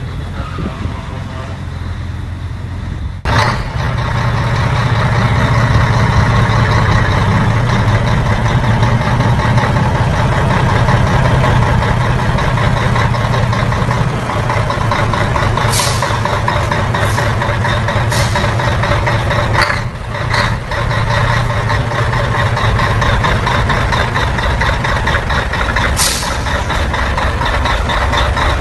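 Diesel engine of an old Fiat heavy truck (Fiatão) running steadily with a deep hum. It grows louder about three seconds in, and a few short hisses break in later on.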